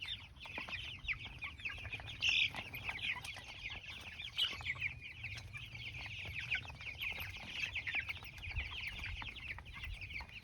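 A flock of young, half-grown chickens peeping and chirping without a break, many short calls overlapping.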